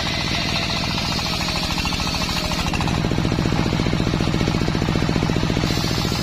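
Engine driving a home-built circular sawmill, running with a fast, even pulsing beat. From about three seconds in until near the end the sound grows stronger and deeper.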